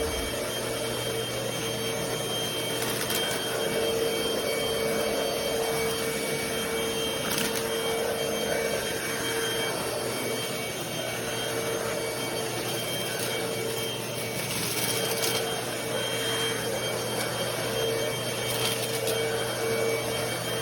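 Cordless stick vacuum cleaner running steadily: a motor whine over a rush of airflow hiss, with a few short surges of hiss along the way.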